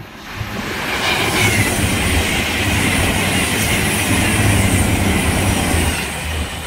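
Avanti West Coast Class 221 Super Voyager express train passing at speed: a steady rush and rumble of wheels on rail that builds about a second in and eases near the end.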